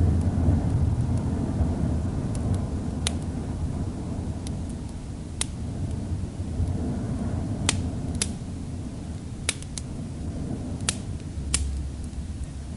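Wood fire crackling, with sharp single pops every second or two, over a steady low rumble of storm wind that swells and eases.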